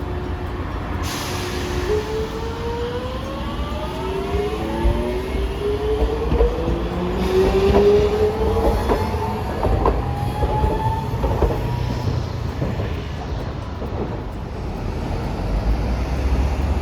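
Hiroshima Electric Railway streetcar pulling away. Its electric motor whine is steady at first, then rises in pitch in several parallel tones from about two seconds in for roughly ten seconds, over a low rumble. Sharp clicks of wheels on rail joints come in the middle of the rise.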